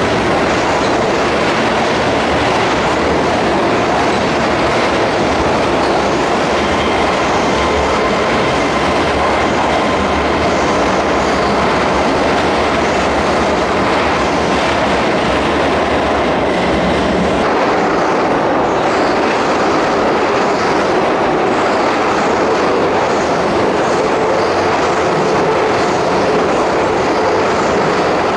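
Keihan Main Line electric train moving along the platform of an underground terminus: a steady, loud rumble with wheels clattering over the rails. The deep rumble eases about two-thirds of the way through.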